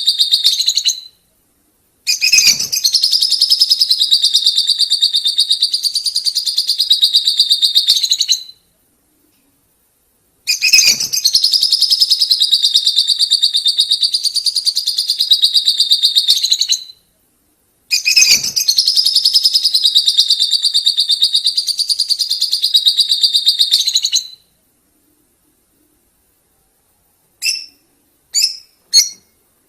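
Lovebirds giving the long 'ngekek' trill: a fast, unbroken chattering call, high-pitched, in three bouts of about six seconds each with silent gaps between. Near the end come three short chirps.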